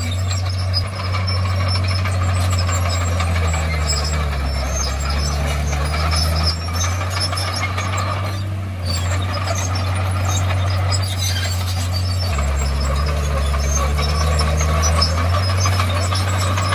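Crawler bulldozer's diesel engine running steadily under work, its note deepening twice for a few seconds as it takes load, with faint clanks and squeaks of the tracks.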